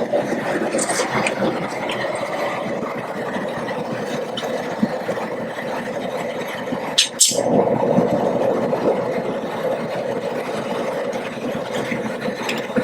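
Propane jet burner running under a large crawfish-boil pot, a steady roar with the seasoned water at a rolling boil. A brief break with a couple of clicks comes about seven seconds in.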